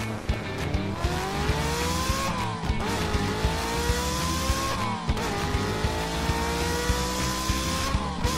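A race-car engine revving up through the gears, its pitch climbing slowly and dropping back at each shift about three times, over background music with a steady beat.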